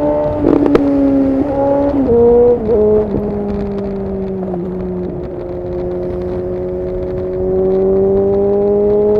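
Suzuki GSX-S750 inline-four running through a decatted Yoshimura SQ11 exhaust without its dB killer. It revs through a few quick gear changes with a few sharp cracks in the first three seconds, then holds a steady pitch that dips and slowly rises, growing louder near the end.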